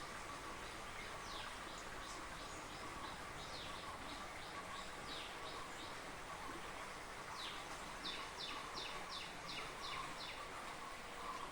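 Birds calling over a steady background hiss: short calls that sweep down in pitch, repeated every second or so, then a quick run of about seven evenly spaced notes late on.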